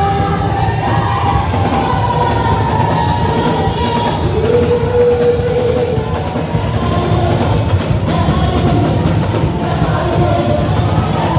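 Live church praise music: singing over a band with drum kit and guitar, held sung notes over a steady full backing.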